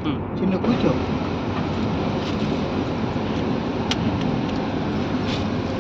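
Steady car or road noise, a constant rushing with a few faint clicks.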